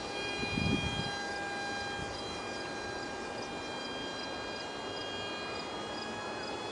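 Steady high-pitched whine of an ultra micro RC plane's 8mm direct-drive electric motor and propeller in flight, fading from louder and then holding level. A brief low rumble comes about half a second in.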